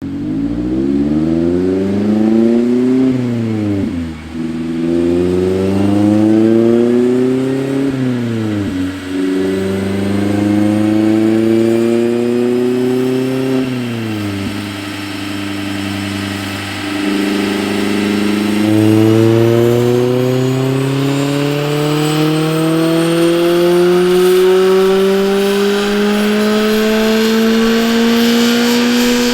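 2019 Mazda MX-5 Miata RF's 2.0-litre four-cylinder running on a chassis dyno through a Goodwin-Racing MaxMidpipe and RoadsterSport SuperStreet axle-back exhaust. It revs up and drops back three times through the gears in the first half, then makes one long, steadily rising pull to high revs near the end.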